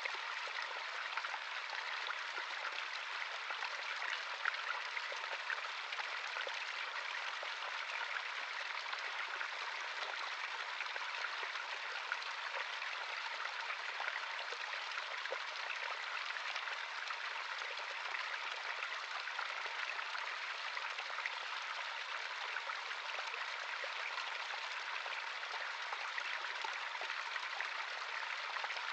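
Small stream of running water flowing steadily, a constant babble with fine splashing and trickling.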